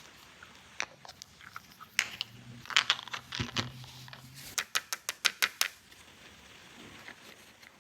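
Small plastic toy pieces being handled: scattered clicks and taps, a short crinkling patch about three seconds in, then a quick run of about seven sharp clicks.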